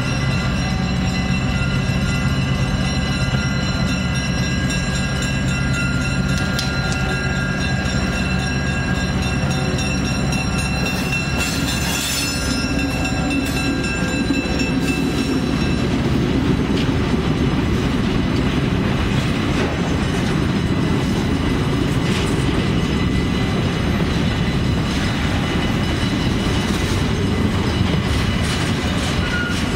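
A diesel switcher locomotive runs past with a steady engine drone. From about halfway on, a string of empty flatcars rolls by with a continuous rumble and wheels clicking over the rail joints.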